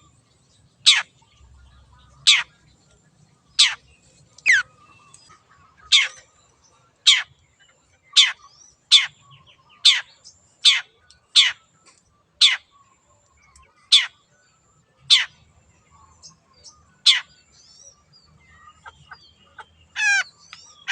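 Long-tailed shrike (cendet) giving a long run of sharp, steeply downward-sweeping calls, about one a second, which stop about three seconds before the end. Just before the end a harsher call with several pitches at once starts.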